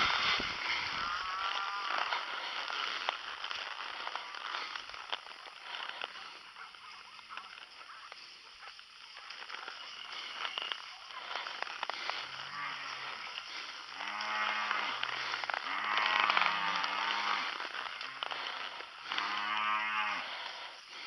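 Cattle mooing: several long, low moos in quick succession in the second half, over a steady hiss.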